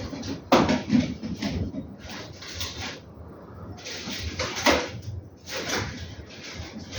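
Abrasive paper rubbed by hand over a metal part in a run of irregular scrubbing strokes, the hardest about half a second in and again near the five-second mark.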